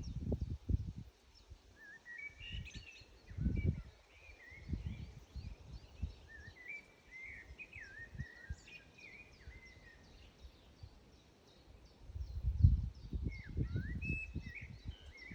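A songbird sings short warbling phrases, off and on. Louder low rumbles come and go through it, strongest near the start and again near the end.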